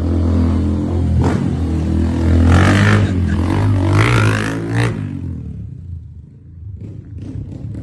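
Motorcycle with a modified, non-stock exhaust, loud and idling with a blip of the throttle every second or so. It dies down about five seconds in.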